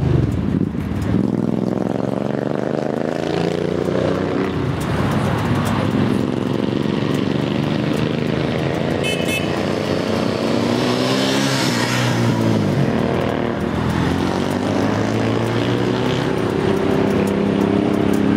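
Several motorcycle engines running and revving together, their pitches rising and falling as they pass, with a short horn toot about nine seconds in.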